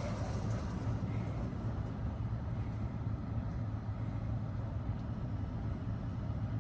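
Mark VII ChoiceWash XT in-bay automatic car wash running, a steady low hum of its motors and pumps with a faint hiss over it; a brighter spraying hiss dies away as it begins.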